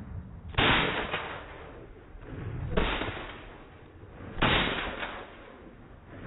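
Three sharp gunshots, about two seconds apart, each dying away quickly.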